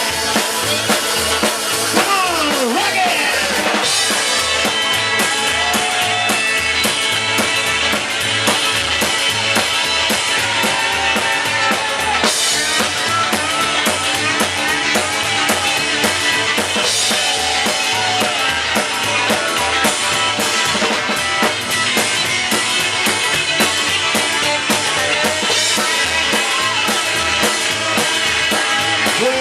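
A rock and roll band playing live, an instrumental stretch without singing: a steady drum-kit beat with bass and a lead instrument sliding and bending its notes over the top.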